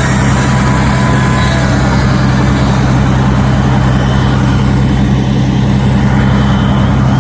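A large vehicle's engine idling close by: a loud, steady low hum with a constant pitch, over a haze of road noise.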